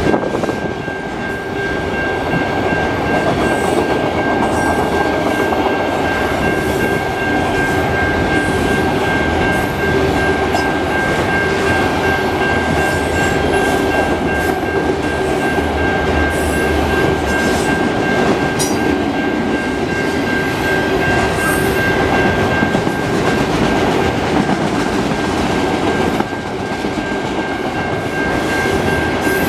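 Enclosed auto rack freight cars rolling past at speed: steady wheels-on-rails rumble and clatter with scattered sharp clicks, and a steady high-pitched tone over it. It drops a little in loudness near the end.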